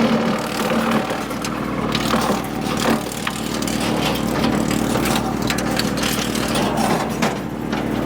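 Woodmaxx WM8H PTO wood chipper running steadily off the tractor, with irregular sharp knocks and cracks as a forked branch is fed at the infeed. The split branch does not go through.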